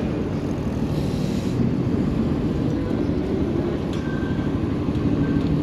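Steady wind and road rumble while riding an Engwe Engine Pro e-bike on knobbly off-road tyres.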